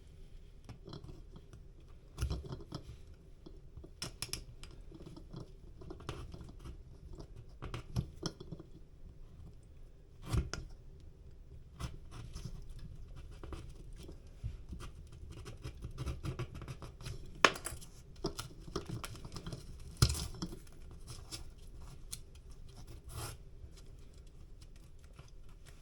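Masking tape being pulled off the roll, torn and pressed on around the hole in the drywall: scattered short rips, crinkles and taps, with a handful of louder ones.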